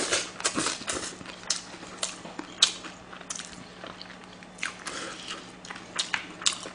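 A person biting and chewing pieces of grilled mackerel, close-miked: irregular wet mouth clicks and smacks, some sharper than others.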